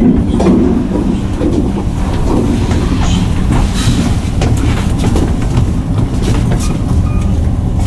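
KONE MiniSpace traction elevator car travelling, a steady low rumble with scattered light clicks and rattles.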